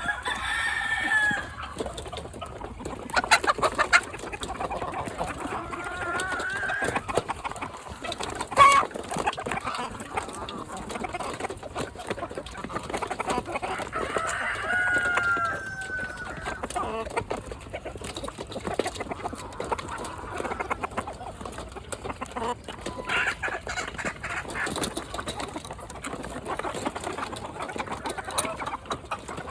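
Chickens clucking and calling, with a few drawn-out calls, over scattered sharp taps, the loudest a single tap about a third of the way in.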